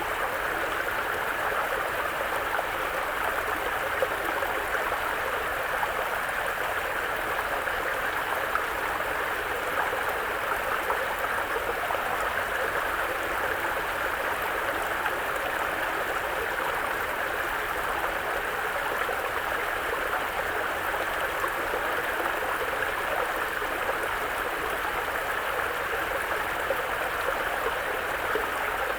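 Mountain brook flowing over rocks: a steady, even rush and babble of water.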